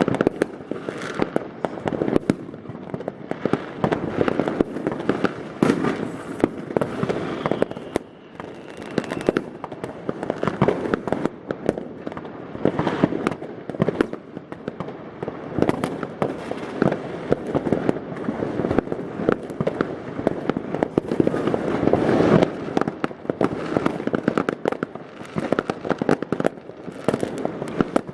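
New Year's Eve fireworks and firecrackers going off without a pause: dense, overlapping bangs and crackling, with louder single reports scattered throughout.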